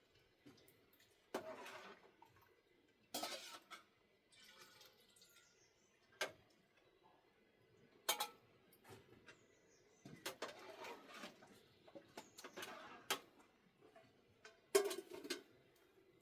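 Pots, dishes and utensils clinking and clattering now and then, in irregular short knocks and scrapes, the loudest clatter near the end.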